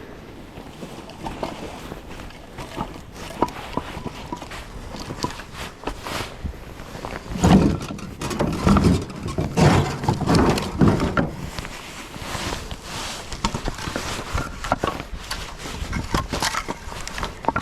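Split firewood pieces knocking and clunking together as they are handled and stacked, with a run of heavier thuds from about seven to eleven seconds in.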